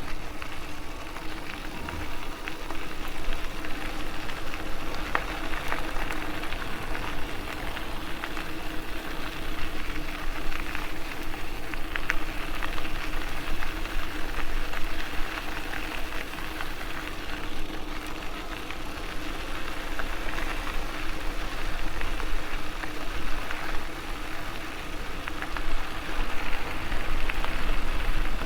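MS2 Dual Sport Ultra e-bike riding along a trail: steady rolling noise of the tyres on the path with a faint steady hum underneath and scattered light clicks and rattles from the bike.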